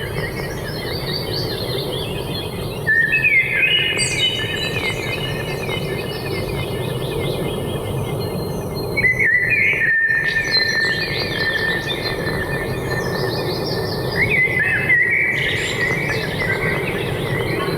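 Forest birdsong: many birds chirping and trilling over one another, with busier bursts of calls about three, nine and fifteen seconds in, over a steady background hiss.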